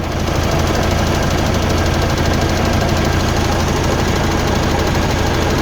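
Mercedes-Benz truck diesel engine running steadily at low revs, getting slightly louder just after the start.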